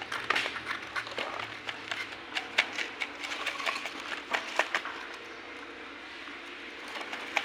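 Irregular clicks and light knocks, several a second, fewer and quieter from about five seconds in.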